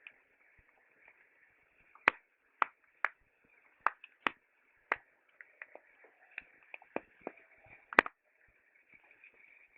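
Wood campfire crackling: sharp, irregular pops and snaps, the loudest about two and eight seconds in, over a faint steady high hiss.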